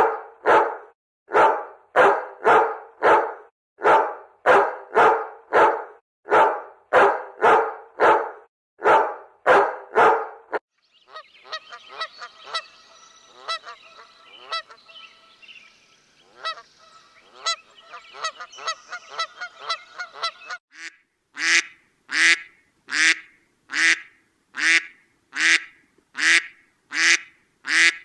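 Dog barking over and over, about two barks a second in a steady run. In the middle comes a stretch of quicker, quieter yips, then sharper, higher barks again near the end.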